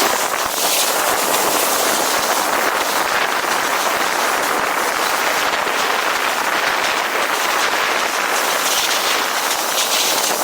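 Steady loud hiss of a snowboard sliding over packed snow, with strong wind rushing past.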